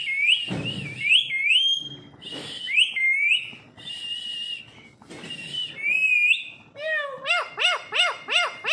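Pet parrot whistling in short high notes that glide up and down, then, about seven seconds in, a quick run of repeated rising-and-falling calls, about three a second.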